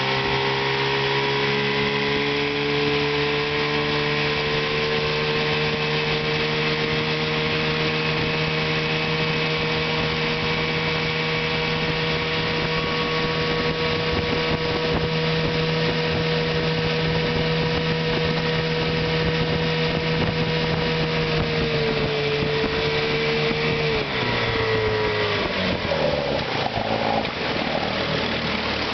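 1975 Chrysler 15 hp two-stroke outboard motor running at a steady speed, rising slightly in pitch at first. A little over twenty seconds in its speed drops and the running turns uneven.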